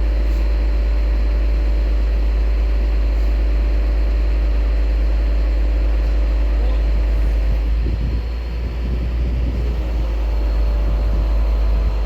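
Hoisting crane's engine running steadily during the lift, with a heavy low rumble. About eight seconds in, its steady tone breaks up and the level dips for a couple of seconds before it settles again.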